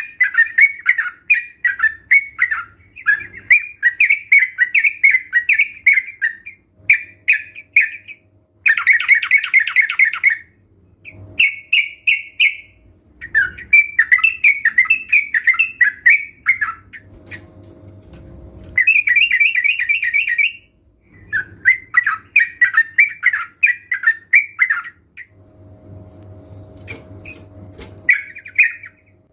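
A group of yellow-vented bulbuls (trucukan) giving quick, bubbly chattering calls in repeated bursts of one to four seconds, with short pauses between them.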